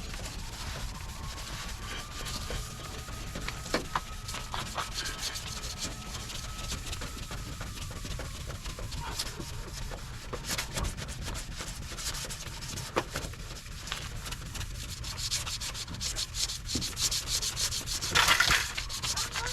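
Sandpaper rubbing on a plastic headlight lens during wet-sanding to clear its haze: a steady scrubbing rasp with scattered scratches, louder for a moment near the end.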